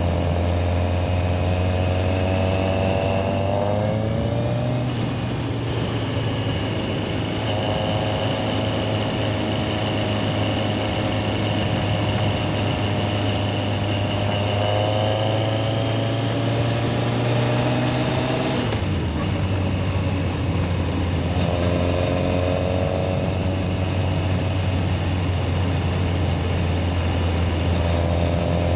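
Yamaha XJR1300's inline-four engine running while the bike is ridden in city traffic, the engine note rising in pitch several times as it accelerates, with a brief break about two-thirds of the way through.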